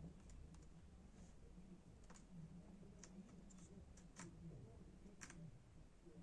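Faint, scattered small clicks and ticks from handling laptop parts, a few more distinct ones about two, four and five seconds in, over a low steady hum.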